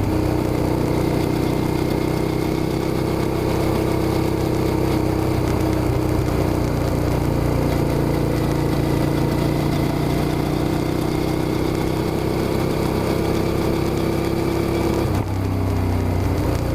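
Suzuki SV650's V-twin engine running at a steady speed, its note holding nearly level. Near the end it dips briefly and settles at a different pitch.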